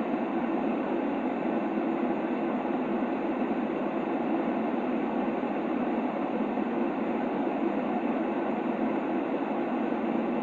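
Steady, muffled white noise of the kind played to lull a baby to sleep: an even hiss that never changes, with little treble.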